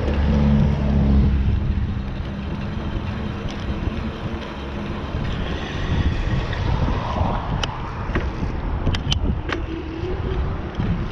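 Wind buffeting the microphone of a camera on a moving bicycle, a steady loud rumble. A motor hum is mixed in during the first second or two, and there are a few sharp clicks near the end.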